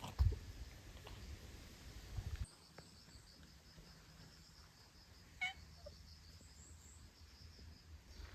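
An insect chirping steadily in a rapid, even pulse, high-pitched and faint. There are low thumps in the first two seconds, and a short falling call about five seconds in.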